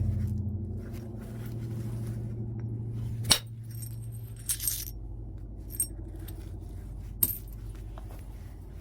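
Knapping white chert: two sharp stone strikes about four seconds apart, with lighter clicks and a glassy tinkle of chert flakes between them. A steady low hum runs underneath.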